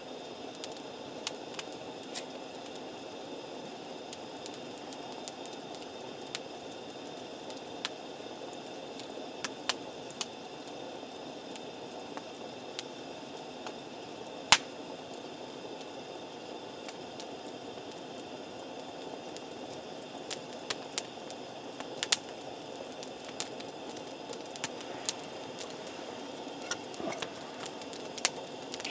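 Wood campfire burning with a steady hiss, crackling with scattered sharp pops; one loud pop about halfway, and the pops come more often near the end.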